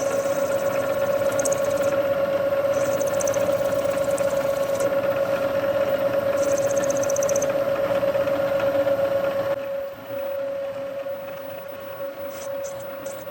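A machine tool running with a steady, high-pitched whine, with short rasping patches over it in the first half. About ten seconds in it drops noticeably quieter but keeps running.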